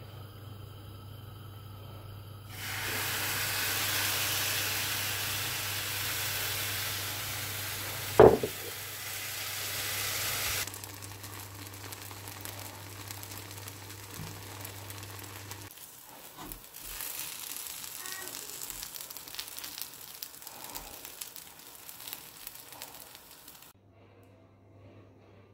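Carrot crepe batter frying in oil in a pan, a strong sizzle that starts a few seconds in, with one sharp knock partway through. The sizzle then drops to a quieter hiss with small clicks and scrapes of a silicone spatula spreading the batter in the pan.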